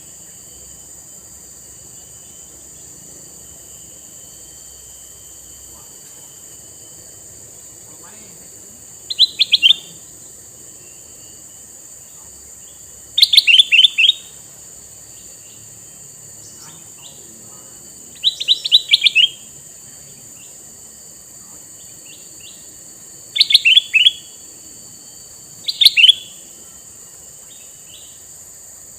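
Male kutilang mas bulbul calling: five short phrases of quick, falling notes, spaced several seconds apart, over a steady high hiss.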